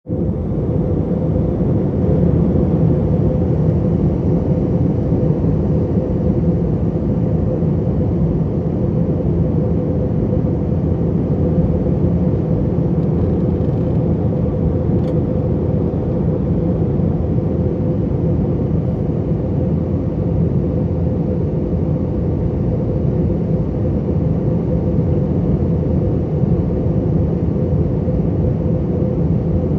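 Steady cabin noise inside an Airbus A321 airliner in flight: a continuous low rumble of engines and airflow with a steady hum running through it.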